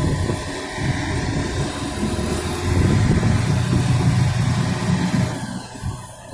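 Truck engine running with a low rumble that grows louder a couple of seconds in, then drops away near the end.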